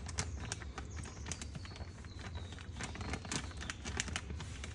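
Plaster and water being stirred in a container, the mixing utensil clicking and scraping irregularly against the container while the lumps are worked out. A low steady hum lies underneath.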